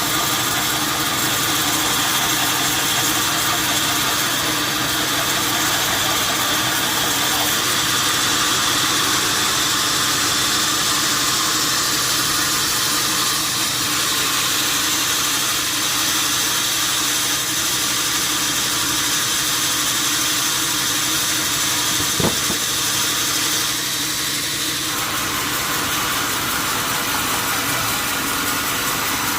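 A steady mechanical hum with a hiss over it, and one short click about two-thirds of the way through.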